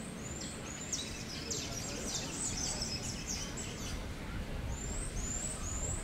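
A small bird singing high and thin: a few short upswept notes, then a dense chattering run for about three seconds, then three more short notes near the end. Underneath runs a steady low background rumble.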